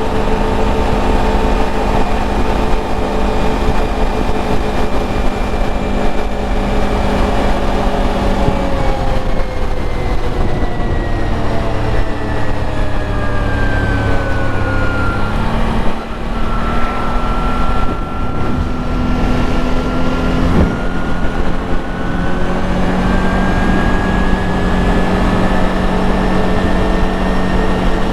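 CFORCE 1000 ATV's V-twin engine at road speed, about 100 km/h on part throttle. Its pitch holds steady, falls over several seconds as the machine slows about halfway through, then climbs slowly again as it speeds back up. A steady rush of wind and tyre noise runs underneath.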